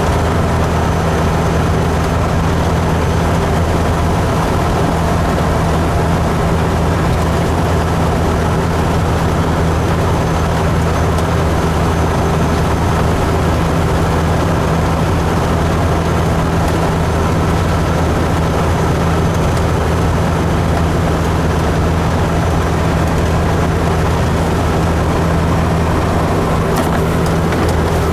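Kenworth truck's diesel engine running steadily at an unchanging pitch, with a constant low drone.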